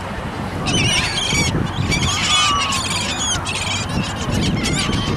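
A flock of seagulls squawking, with many short high calls overlapping in clusters from about a second in, over a steady low rumble.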